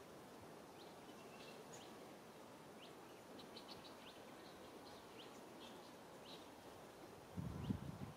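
Faint outdoor ambience with small birds chirping now and then in short quick calls. Near the end comes a brief, louder low muffled rumble.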